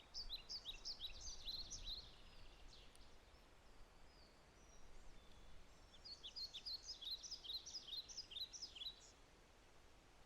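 A songbird sings two quick phrases of high, rapid chirping notes, one right at the start lasting about two seconds and another about six seconds in, over a faint steady hiss of forest rain.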